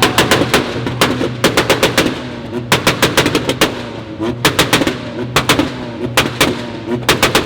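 A tuned car's exhaust popping and banging while the engine is revved: bursts of four to six sharp cracks in quick succession, about once a second, over the running engine.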